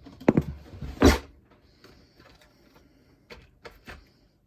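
Two sharp knocks in the first second or so, then a few soft clicks near the end, like objects being handled and set down.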